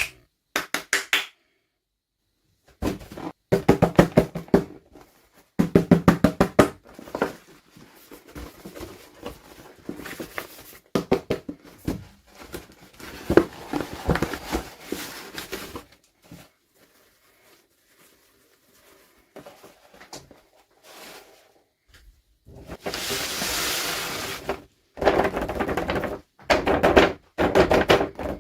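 Hands unboxing small plastic toy dolls: clusters of sharp plastic clicks, taps and knocks as packaging and pieces are handled, with a steady rustle of packaging for about two seconds near the end.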